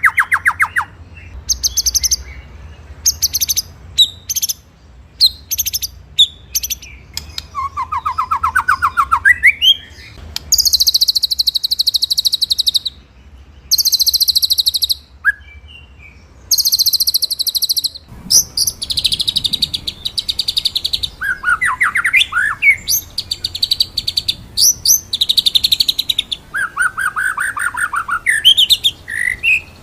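White-rumped shama (murai batu) singing in phrases of fast rolling trills and sharp high notes, with short pauses between phrases. A few of the trills are lower-pitched.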